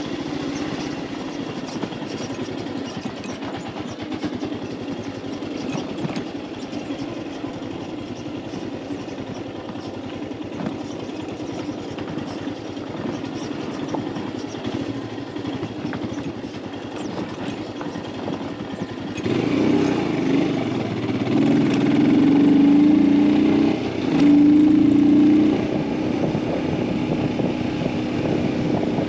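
Royal Enfield Himalayan 411's single-cylinder engine running under way. About two-thirds through, its note rises and grows louder, holds steady with one short dip, then settles back a little quieter.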